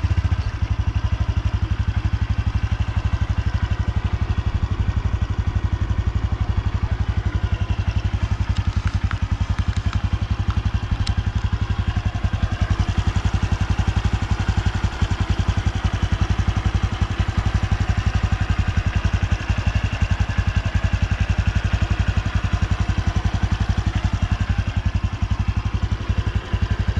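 Honda Super Cub's single-cylinder four-stroke engine idling steadily with an even, fast exhaust pulse.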